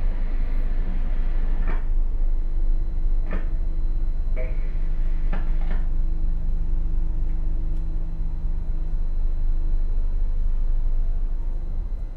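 Steady low rumble of a tugboat's diesel engines, with a humming tone through the middle and a handful of sharp knocks about two, three, four and a half and five and a half seconds in.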